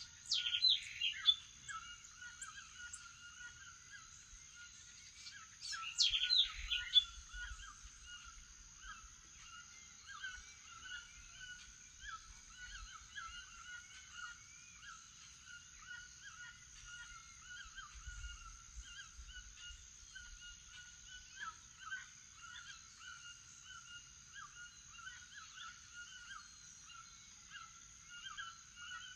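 Morning chorus of many birds chirping continuously, with two loud bursts of harsh, honking calls, likely toucans, in the first second and again about six seconds in. A steady high-pitched hum runs underneath.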